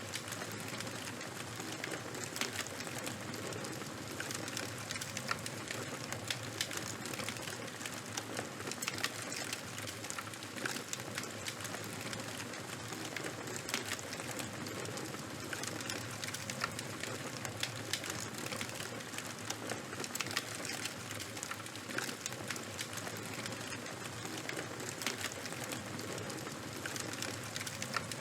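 Charcoal and wood fire crackling steadily: a soft hiss with many small, sharp pops scattered throughout.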